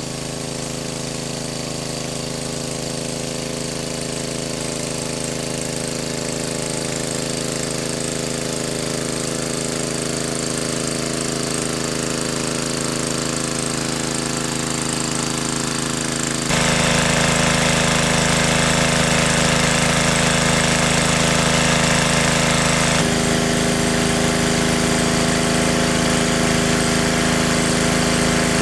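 A small engine running steadily. It gets louder and changes tone abruptly about halfway through, then shifts again near the end.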